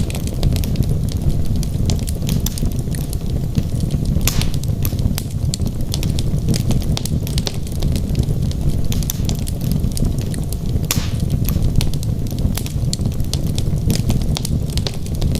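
Wood logs burning in a fireplace: a steady low rumble of flames with constant sharp crackles and pops, a couple of them louder, about four seconds in and about eleven seconds in.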